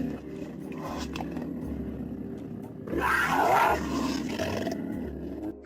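A cougar calling: one loud, rough call of about a second, about three seconds in, over a quieter steady background.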